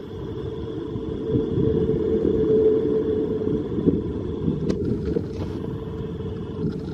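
Class 450 Desiro electric multiple unit running past along the platform: a steady rumble of wheels on rail with a faint motor whine, swelling as the train goes by, and a single sharp clack about four and a half seconds in.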